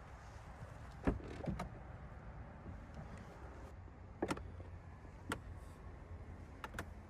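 Low steady rumble inside the cabin of a Cadillac Escalade ESV, with a handful of sharp clicks and knocks scattered through it, two or three at a time.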